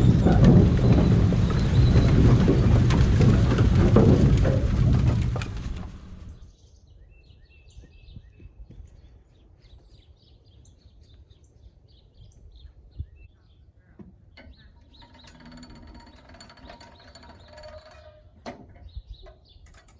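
Loud machinery running cuts off about six seconds in, leaving birds chirping.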